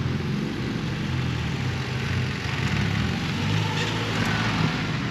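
Car engine idling close by, a steady low hum whose note shifts slightly about three and a half seconds in.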